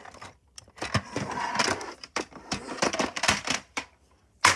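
Toys being handled and moved about, giving a busy run of clicks and clatters for about three seconds, with one sharp knock at the end.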